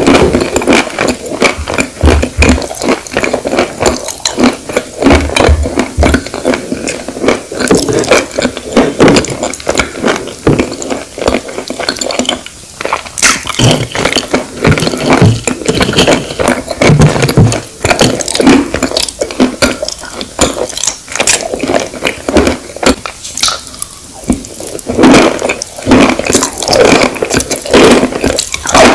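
Close-miked chewing of chalk crumbles with a creamy paste: a dense, irregular run of crackly crunches that goes on without a break.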